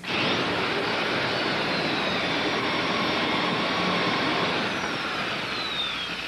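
Electric drill boring holes for the canoe's end ribs: the motor starts abruptly and runs steadily under load, then its whine falls in pitch near the end as it winds down.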